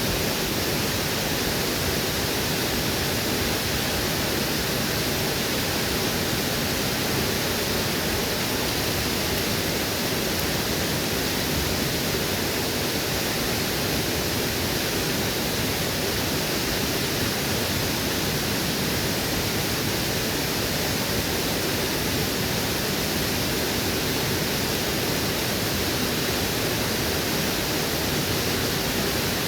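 Waterfall rushing steadily, a dense even roar of falling water with no break.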